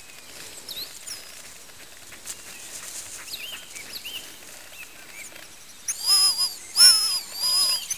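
Birds chirping faintly in the background, then three loud, high, wavering calls about six seconds in.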